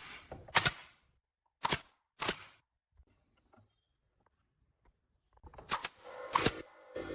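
Sharp clicks or knocks: three single ones in the first few seconds, then after a quiet gap a quicker run of them near the end over a steady hum.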